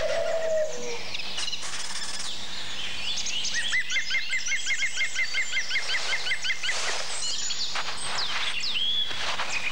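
Several birds singing and calling at once, a chorus of chirps and whistles. In the middle comes a fast, even run of repeated chirps for about three seconds. A short low call is heard right at the start.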